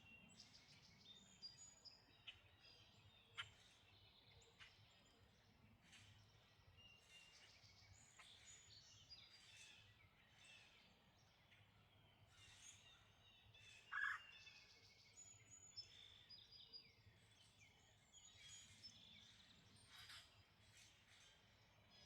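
Faint chorus of birds chirping and whistling, with many short, scattered high calls. One louder, lower call comes about fourteen seconds in, and a few sharp ticks come near the start.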